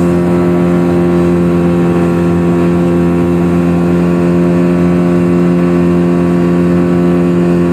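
Engine of the motorboat towing a banana boat, running at a steady speed: a constant, unchanging drone.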